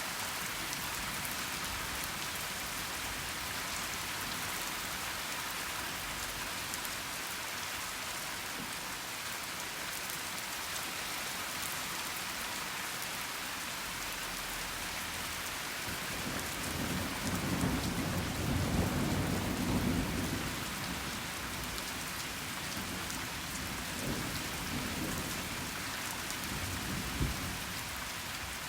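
Steady heavy rain hissing on surfaces, with a roll of thunder rumbling in about two-thirds of the way through, swelling for several seconds before fading, and fainter rumbles after it.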